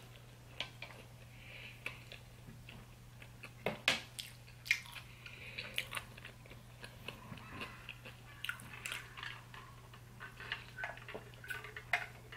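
Close-up chewing and wet mouth sounds of someone eating, with scattered short clicks and smacks, over a faint steady hum.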